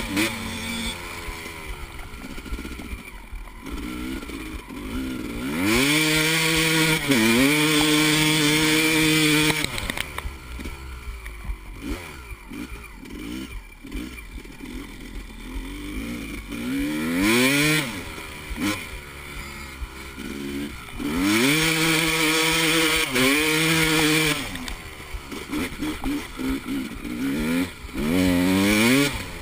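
Four-stroke dirt bike engines revving hard, the pitch climbing, dropping at a gear change and climbing again. The bikes run loudest at full throttle about six seconds in and again about twenty-one seconds in, with quieter engine sound between.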